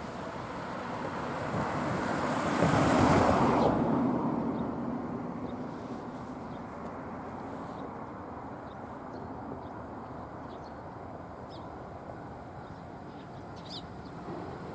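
A vehicle passes close by, loudest about three seconds in, then fades to a steady outdoor background with a few faint high chirps.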